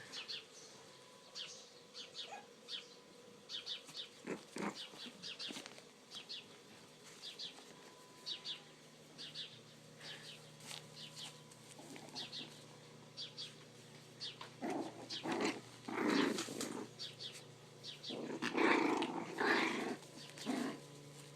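Five-week-old teddy bear puppies play-fighting: small growls and short high squeaks throughout, with louder bouts of growling about two-thirds of the way through and again near the end.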